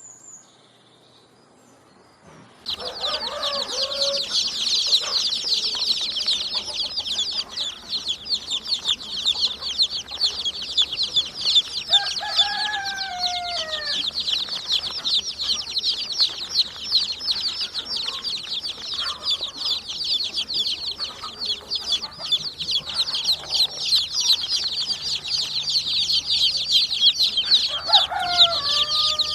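Dense chorus of rapid, high chirping from many birds that starts suddenly a few seconds in, with a few lower calls sliding downward in pitch scattered through it: at the start of the chorus, around the middle and near the end.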